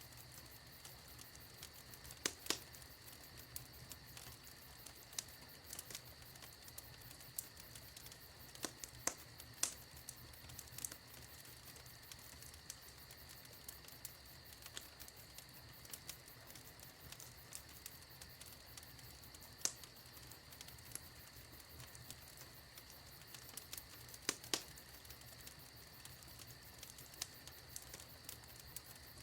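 Wood fire in a fireplace crackling: irregular small snaps and several louder pops over a faint steady hiss.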